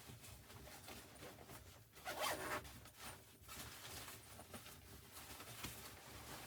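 Faint handling noises: soft scratchy rustling, with one brief, louder rasping swish about two seconds in.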